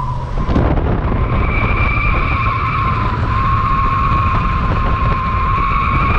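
Front tires of a 1968 Buick Skylark squealing steadily as the car drives, over the rumble of the car on the road. The squeal comes from the front wheels being badly toed out.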